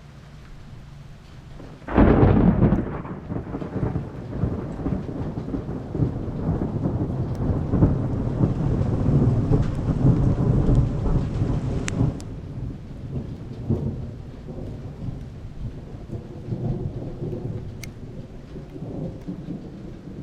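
Thunder from a monsoon thunderstorm: a sudden thunderclap about two seconds in, followed by a long rolling rumble that eases off about twelve seconds in, with fainter rumbles after. Rain falls throughout.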